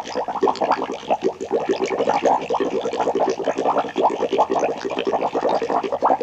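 Horror sound effect: a fast, unbroken chatter of short rising chirps, many to the second, like a creature warbling or gurgling.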